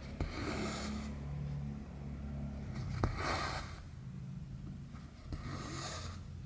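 Cotton embroidery thread drawn through 11-count cross-stitch fabric three times, each pull a short rasping swish, roughly two and a half seconds apart. A sharp click comes just before the second pull, over a low steady hum.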